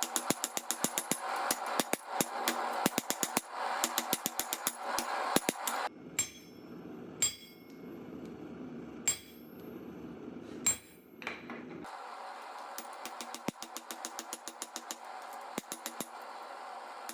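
Hand hammer striking hot 1084 steel on an anvil while forging out a knife tang: quick repeated blows for about six seconds, then a few single ringing strikes spaced a second or two apart, then fainter quick blows again near the end, over a steady background hum.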